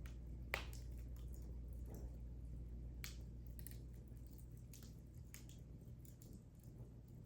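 Wood fire in a fireplace crackling, with scattered sharp pops and snaps, the loudest about half a second in, over a low steady rumble.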